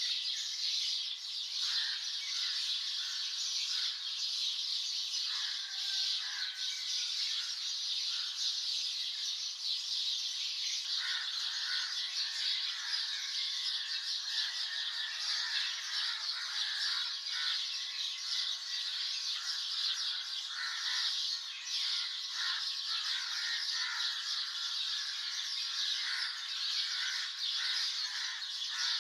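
Many songbirds chirping and calling together in a dense, continuous morning chorus, with high chirps layered over lower whistled calls.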